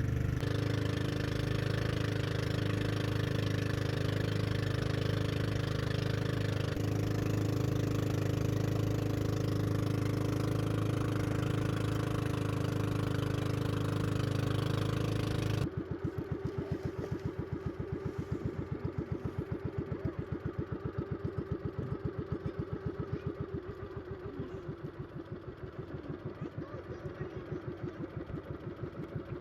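Boat engine running steadily at cruising speed, then about halfway through the sound abruptly drops to a quieter, slower, evenly pulsing beat as the engine idles.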